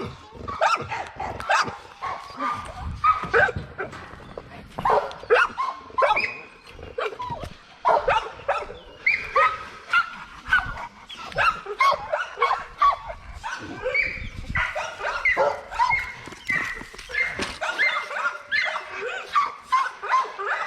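Dogs barking and yelping over and over in short, quick calls, with no real pause.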